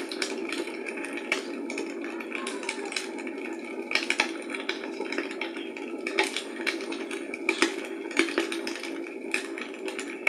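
Fire crackling in a fireplace: a steady hiss with irregular sharp pops and snaps.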